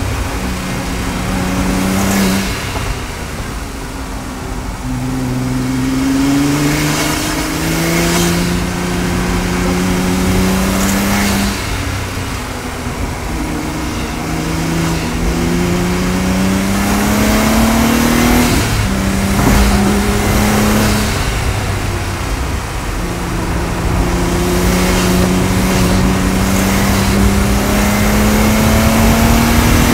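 Stage 3-tuned Audi S4 engine and exhaust heard from inside the cabin, lapping a race track under hard acceleration. The engine note climbs through the revs again and again, falling back at each gear change or lift for a corner, and is highest and loudest near the end.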